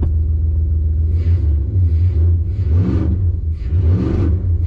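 Pickup truck engine rumbling and revving up and back down in repeated bursts while the tyres spin for grip; the two strongest revs come about three and four seconds in.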